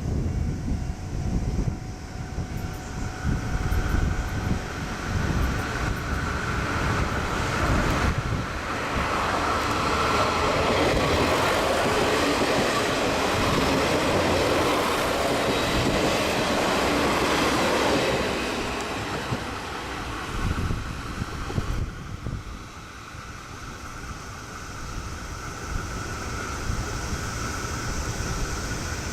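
A train passing a level crossing: a rumble that builds, is loudest for several seconds in the middle, then fades away.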